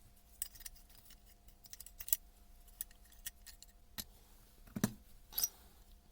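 Small metal parts and tools clinking and rattling as they are handled, a run of light clicks with a louder clatter about five seconds in.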